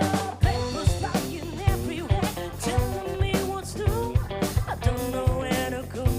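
Live funk and soul band playing a groove: drum kit keeping a steady beat under electric guitar, with a voice or lead line bending in pitch over the top.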